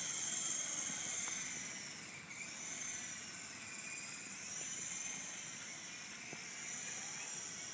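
Rotorcraft in flight: a steady high-pitched whine that slowly wavers up and down in pitch, with little low rumble.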